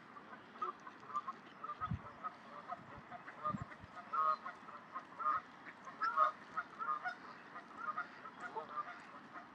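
A flock of geese honking over and over, many short calls overlapping, with a couple of brief low bumps in the first half.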